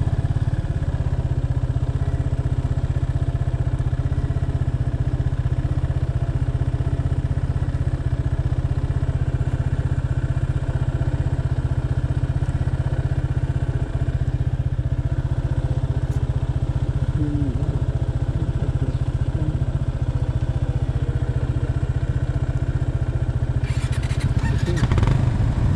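Motorcycle engine running steadily at an unchanging pitch. Near the end, a short cluster of knocks and rattles sounds over it.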